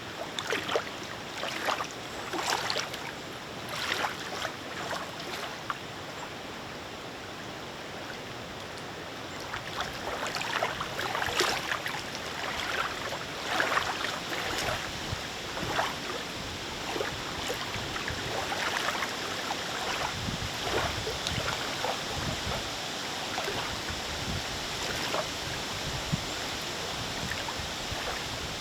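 Small wind-driven lake waves lapping and splashing in irregular slaps, over a steady hiss of breeze.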